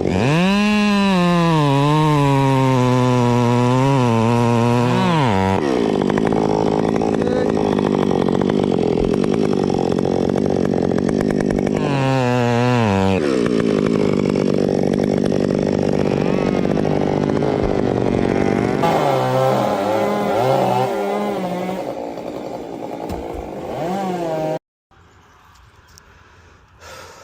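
Chainsaw running hard while cutting, its engine pitch rising and wavering under load, falling away sharply about five seconds in and again around thirteen seconds, then revving and easing near the end. The saw sound stops abruptly about three seconds before the end, leaving a much quieter stretch.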